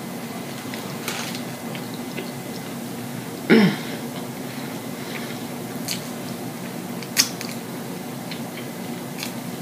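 A person chewing a mouthful of a pita wrap sandwich with mouth open, close to the microphone: wet smacks and sharp clicks over a steady low hum. About three and a half seconds in comes the loudest moment, a short vocal sound from the eater that drops in pitch.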